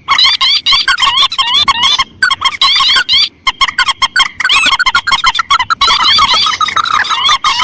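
Layered, looped recordings of rice-field rails and crakes (mandar and tikusan) calling: many rapid, repeated squeaky notes overlapping densely, played as a bird-luring call track.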